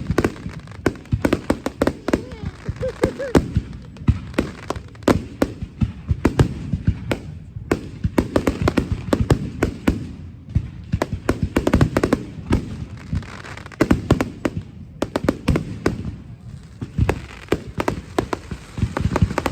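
Fireworks display: a dense, continuous barrage of bangs and crackles from aerial shells, with many reports every second.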